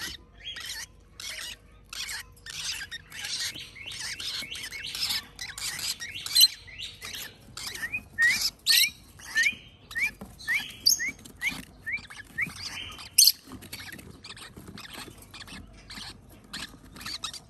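A brood of young parrot chicks giving rapid, raspy begging calls while being hand-fed, crowding for food, with a run of short rising chirps in the middle.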